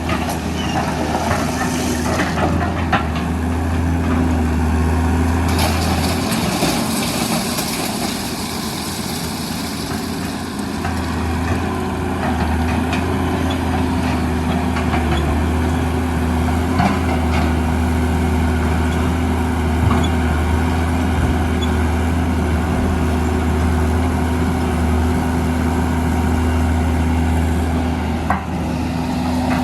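Heavy diesel engines of a Hitachi EX200 excavator and Isuzu Elf dump truck running steadily as the excavator works. The low hum eases for a few seconds about six seconds in. There are scattered sharp knocks and clatter of sand and rock.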